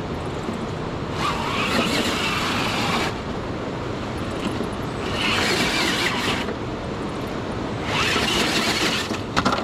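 Traxxas TRX-6 6x6 RC crawler's electric motor and drivetrain whirring in three throttle bursts over a steady noisy background, as the truck struggles for grip on wet rock. There are a couple of sharp clicks near the end.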